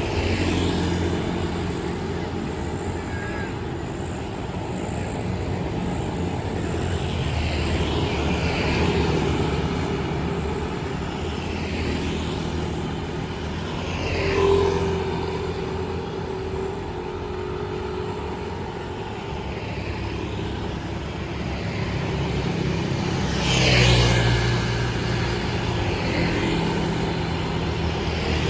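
Steady drone of city road traffic on rain-wet streets, with vehicles hissing past every few seconds; the loudest pass comes near the end.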